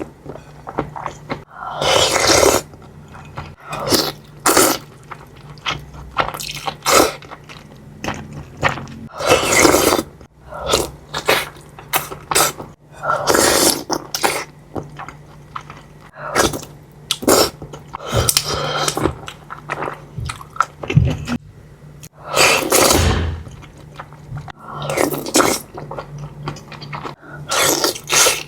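Close-up eating of bakso meatball soup: a spoon scraping the bowl and chewing, in bursts every second or two, over a steady low hum.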